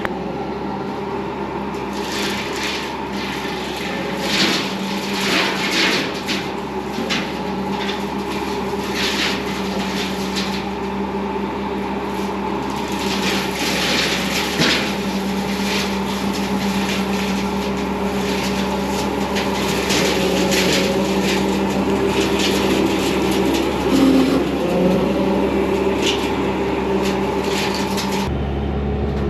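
Bobcat T595 skid steer's diesel engine running steadily, driving a sideways-mounted brush hog through a hydraulic motor. The blade chops through brush with frequent sharp cracks and snaps of branches being cut, which stop abruptly near the end.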